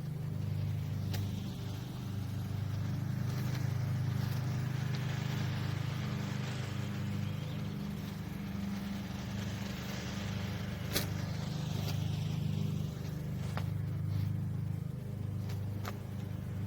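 A steady low motor hum, with a higher rush of passing traffic that swells and fades twice, and a few light clicks.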